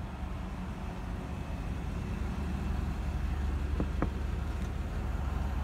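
Steady low rumble of a parked sedan's engine idling. About four seconds in come two light taps on the car's window.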